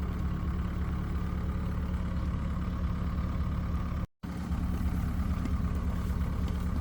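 An engine idling steadily, dropping out completely for an instant about four seconds in.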